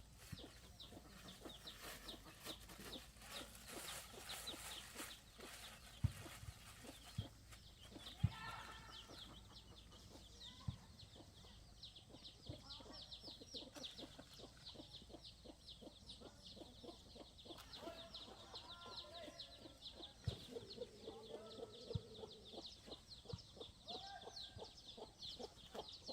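Birds peeping rapidly and continuously in short, high, falling notes, with a few lower calls and several sharp knocks.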